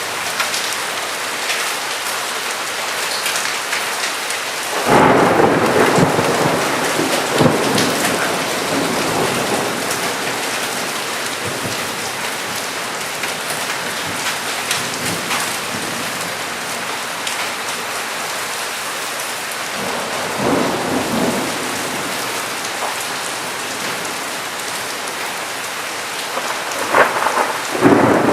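Steady heavy rainfall, broken about five seconds in by a sudden thunderclap that rumbles on and fades over several seconds. A fainter roll of thunder follows later, and another sharp clap comes near the end.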